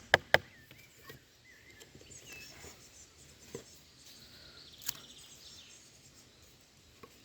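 Two last quick, sharp chops of a knife blade into beech wood at the very start. Then quiet woodland background with faint bird chirps and a couple of soft knocks.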